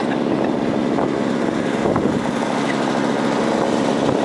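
Small gasoline engine running steadily at a constant speed, as from a snowblower.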